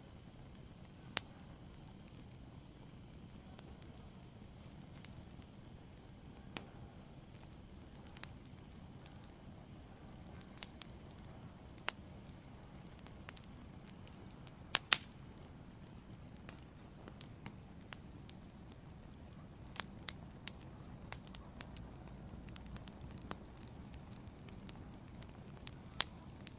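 Wood fire burning in a fireplace: a low steady hiss with irregular sharp crackles and pops from the logs, a loud double pop about halfway through.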